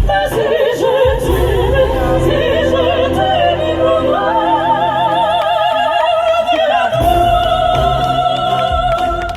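Two classical sopranos singing in harmony with wide vibrato over instrumental accompaniment with a low bass line, ending on one long held high note through the last two seconds or so.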